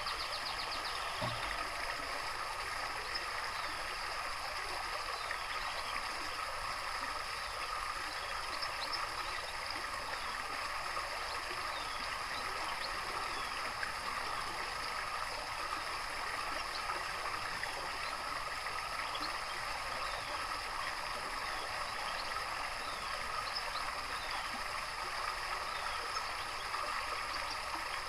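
Steady running water, with faint, brief bird chirps here and there.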